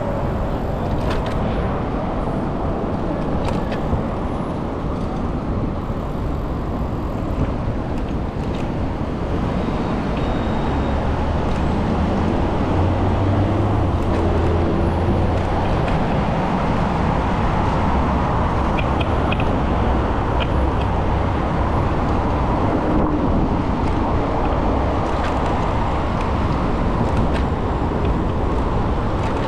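Busy city road traffic heard from a moving bicycle: a steady wash of engine and tyre noise. A large vehicle's engine rumbles close by for several seconds around the middle.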